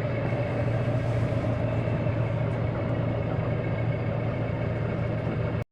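Sailboat's inboard diesel auxiliary engine running steadily while motoring, a low even hum that cuts off suddenly near the end.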